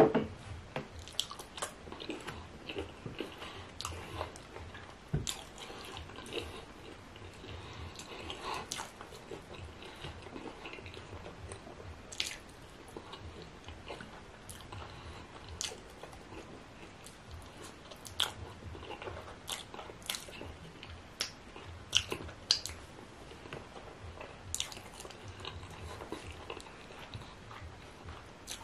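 A person chewing and biting meat in ogbono soup eaten by hand: wet chewing and smacking with many short mouth clicks throughout, and one loud knock right at the start.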